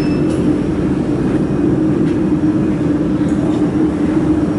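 Steady machine hum with a strong low drone from the laser welding machine setup just after it is powered on, with a short high beep right at the start.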